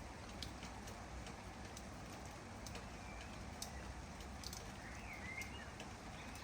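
Steady rain falling, with scattered individual drops ticking close by. A bird gives short chirps about three seconds in and again near the end.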